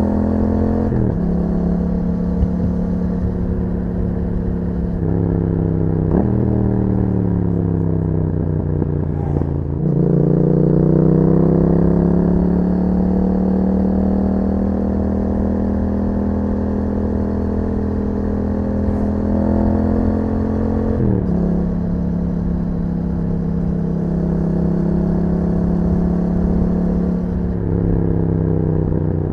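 Yamaha MT-07's 689 cc parallel-twin engine through an Akrapovic exhaust, under way and pulling through the gears. Its pitch climbs and then drops sharply at each shift, about a second in, around five and six seconds, after twenty seconds and near the end. In between it eases off, the pitch sinking for a few seconds, then climbs again as it accelerates.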